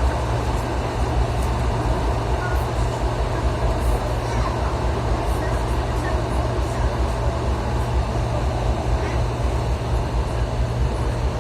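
Electric commuter train running, heard from inside the car: a steady low rumble and hum of the wheels on the rails, with a few faint ticks.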